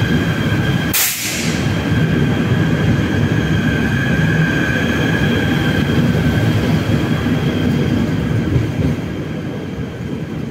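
KTM ETS Platinum electric multiple unit pulling away past the platform, with a steady high whine over the rumble of its running gear and a short hiss about a second in. The sound fades over the last couple of seconds as the last car leaves.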